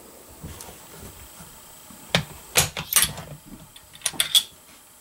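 A handful of sharp metallic clicks and clacks, bunched between about two and four and a half seconds in: a bolt-action hunting rifle's bolt being worked after a shot.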